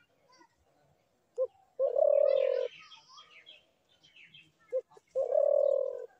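Dove cooing twice: each call is a short low note followed a moment later by a longer, steady coo, the two calls about three seconds apart. Faint chirps of other small birds sound between them.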